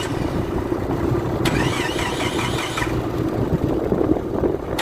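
Car engine running steadily, with high warbling chirps over it and a sharp click about a second and a half in and another near the end.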